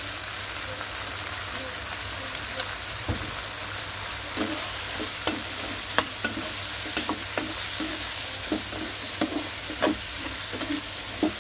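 Chicken frying in a pan with dark soy sauce, a steady sizzle, while a spatula stirs it and knocks irregularly against the pan from about four seconds in.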